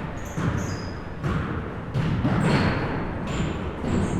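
A basketball bouncing on a gym floor, several separate thuds, with short high sneaker squeaks in between.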